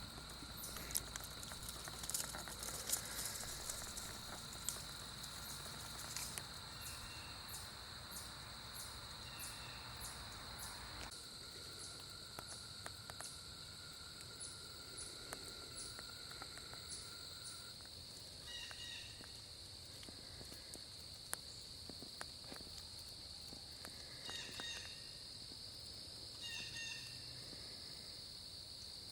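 Faint outdoor ambience dominated by a steady, high-pitched insect drone. About 11 seconds in a low rumble underneath stops abruptly, and in the second half short chirps come back every couple of seconds.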